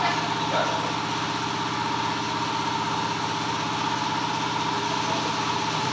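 An engine idling steadily, with a thin high whine running over it.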